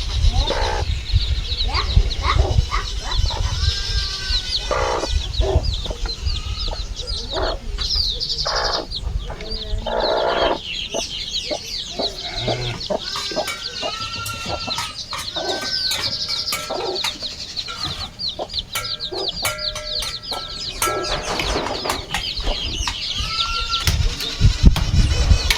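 Chickens clucking around a farmyard, with many small birds chirping.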